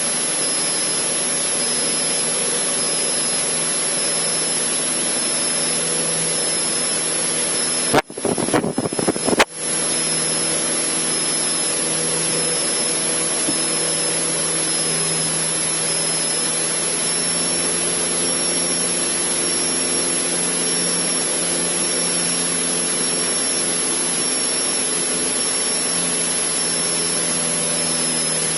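Cessna 152's four-cylinder Lycoming engine running steadily at high cruise power, heard from inside the cabin as an even drone with hiss. About eight seconds in, a crackling dropout lasts roughly a second and a half.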